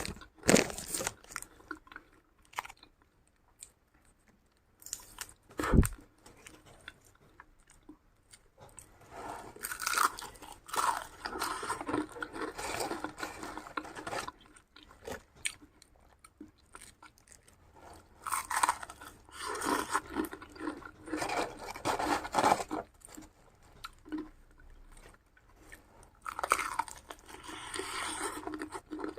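A person chewing crunchy food in three bouts of several seconds each, with short pauses between them and a single sharp knock about six seconds in.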